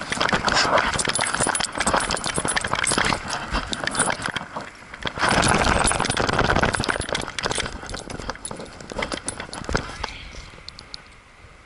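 Metal jingling and clinking with rustling noise, loud in two long stretches and then thinning out to quiet near the end.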